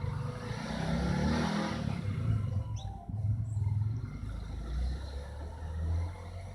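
Low engine rumble of a vehicle going by, swelling about one to two seconds in, with two brief high chirps, one about three seconds in and one at the end.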